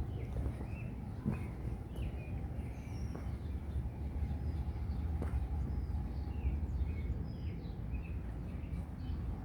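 Birds chirping in many short calls, over a steady low outdoor rumble.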